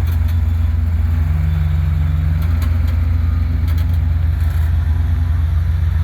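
Off-road truck engine idling steadily, with a deep, even drone.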